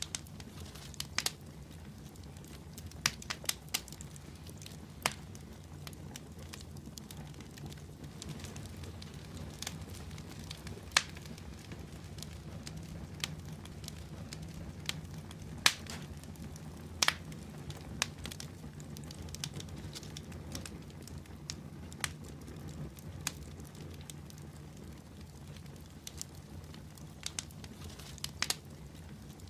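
Wood fire in a fireplace crackling: irregular sharp pops and snaps, a few a second at most, over a steady low rumble from the flames.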